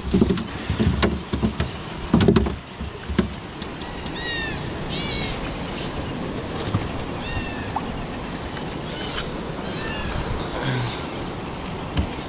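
Several high, arching bird calls, one after another, starting about four seconds in, over a steady wash of sea and wind noise.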